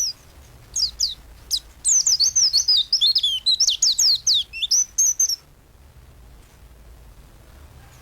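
White-eye (pleci) singing: a few separate high, down-slurred notes, then a fast, high twittering song lasting about three seconds that stops about two-thirds of the way through.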